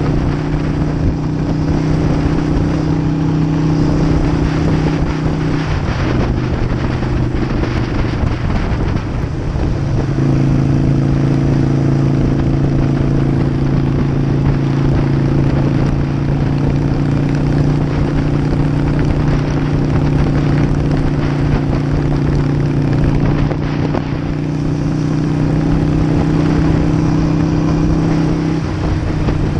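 Harley-Davidson air-cooled V-twin running at cruising speed, a steady drone over rushing noise. About six seconds in, the engine note breaks up and shifts for a few seconds, as in a gear change or a roll-off, then settles back to a steady cruise. It dips briefly again near the end.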